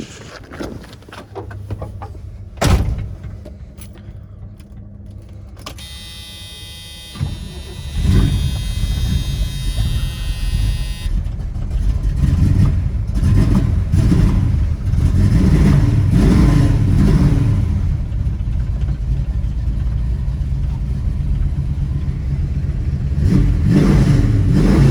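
Custom-built 455 cubic inch Pontiac V8 with headers and dual exhaust starting up about seven or eight seconds in, then running loud and deep and being revved several times. A sharp click comes a few seconds before the start.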